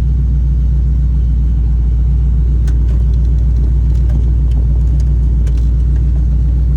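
Ford Crown Victoria's 4.6-litre V8 idling steadily with a deep, even rumble while it warms up. A few faint ticks come through around the middle.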